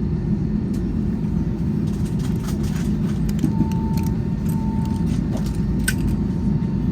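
Steady low rumble in an airliner cabin after landing, with scattered light clicks and two short, even beeps in the middle.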